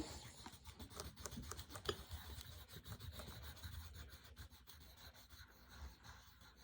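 Faint scratchy strokes of a pencil colouring on paper, many quick strokes that thin out after about four and a half seconds.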